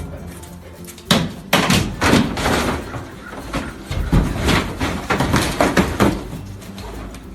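A dog banging at something hard to get at its hidden toy: a dozen or so loud, irregular bangs and thumps, like a door or cabinet being knocked.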